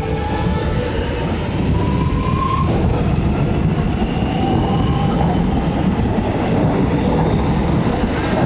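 Electric suburban train running past, a steady heavy rumble of wheels on rails, with a brief rising whine about two seconds in.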